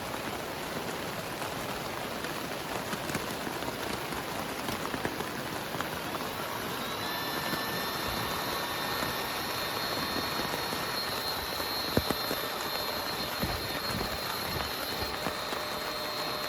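Heavy rain falling steadily as an even hiss. About seven seconds in, a steady whine of several high tones joins and holds, and there is a single sharp knock about twelve seconds in.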